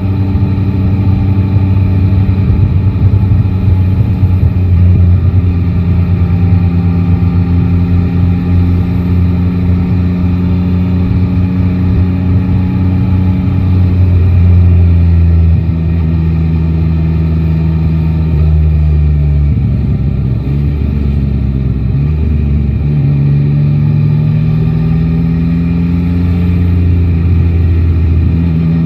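Yamaha Tracer 9 GT's 890 cc inline-three engine under way: steady running for the first half, engine speed falling at about 16 to 20 seconds as the bike slows, then rising again from about 23 seconds as it accelerates.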